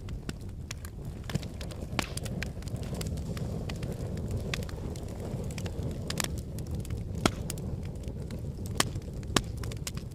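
Wood fire in a fireplace burning, a low steady rumble with irregular sharp crackles and pops from the logs, a few louder snaps in the last few seconds.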